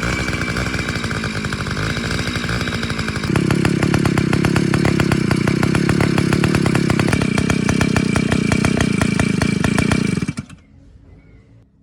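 Small two-stroke engine of a water pump running steadily with rapid firing pulses, getting louder about three seconds in, then shut off abruptly near the end.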